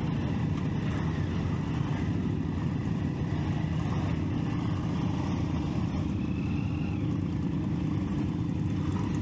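Triumph Street Triple 675's inline three-cylinder engine running steadily, a constant low rumble with no revving.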